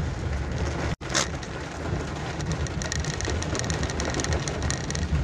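Heavy rain falling steadily, with a low rumble of a moving vehicle underneath. The sound cuts out for an instant about a second in.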